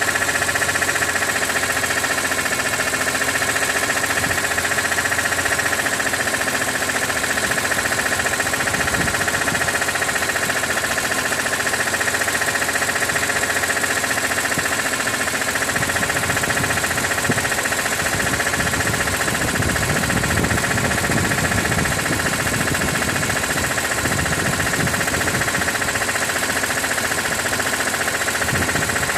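BMW E46 M3's S54 straight-six engine running steadily with an abnormal noise that shows up once the oil is above 80 °C, which the owner wonders could come from the oil pump.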